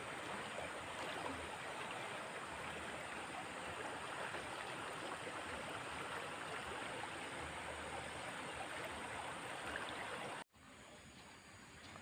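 Flowing water with a steady rush, which cuts off suddenly near the end to a much quieter background.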